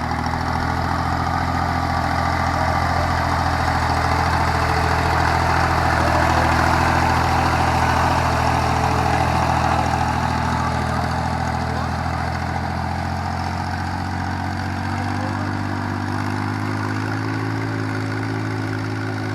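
Yanmar YM3000 tractor's diesel engine running steadily under work. Its note changes and rises about fifteen seconds in.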